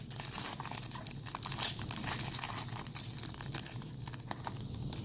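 Plastic trading-card pack wrapper crinkling and tearing as a pack is opened. The crackling is busiest for the first few seconds, then eases off.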